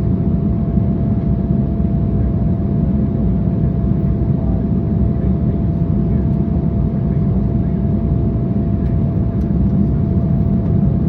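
Embraer 175 jet airliner heard from inside the cabin in flight: a steady rumble of its turbofan engines and the airflow, with a steady faint whine.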